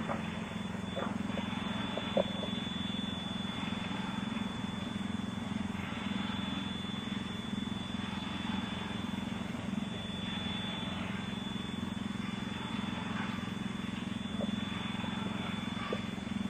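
A steady low hum with a thin, steady high-pitched whistling tone above it, a singing or whistling noise of unknown source. A small click about two seconds in.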